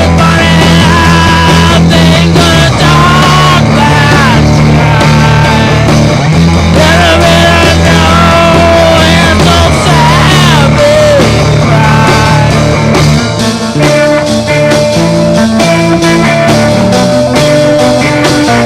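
Psychedelic rock music: a lead line that bends and wavers in pitch over a steady bass line. About two-thirds of the way through, the bass drops away and the sound thins.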